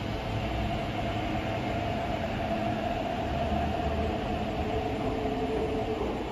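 MTR electric multiple-unit train pulling away from the platform: a steady whine from the traction motors over wheel-on-rail rumble, with a second, lower whine joining in the latter half.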